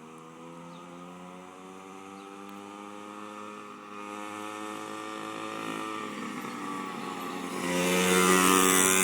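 X2 pocket bike's small two-stroke engine running below full speed, its pitch slowly rising as it grows louder, then much louder from near the end as the bike comes close.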